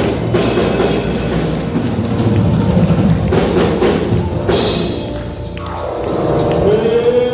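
Live church praise music driven by a drum kit and percussion, played for dancing. Near the end a voice comes in on a rising note.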